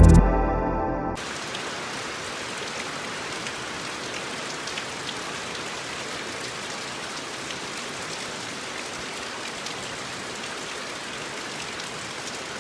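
Steady rain falling, with faint scattered drip ticks in the hiss. Background music ends about a second in.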